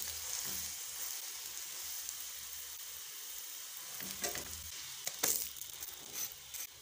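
Roti frying in Dalda vanaspati ghee on a tawa griddle: a steady sizzle, with a couple of short scrapes or clicks of a metal spatula against the tawa about four and five seconds in.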